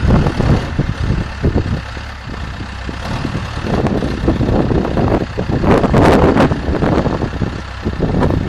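Diesel engine of a 2004 Case 590 Super M Series II loader backhoe running, its revs rising and falling: louder at the start and around six seconds in, quieter in between.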